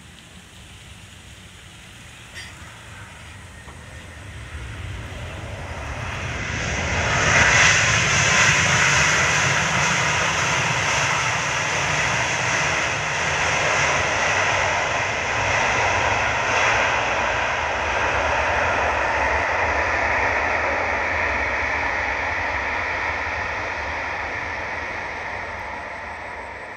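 Jet aircraft's engines growing quickly louder as it passes close, loudest about seven seconds in, holding loud for a long stretch and then slowly fading away.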